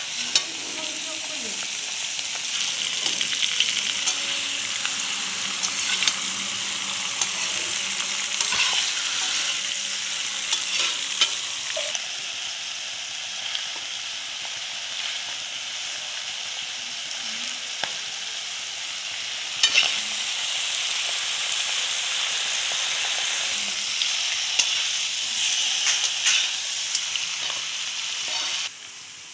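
Chicken pieces in masala sizzling as they fry in a pan, stirred with a spatula that scrapes and knocks against the pan now and then. The sizzle cuts off suddenly near the end.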